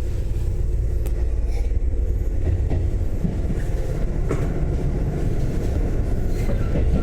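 Sanyo Electric Railway train running at speed, a steady low rumble with a few sharp clicks and faint steady tones.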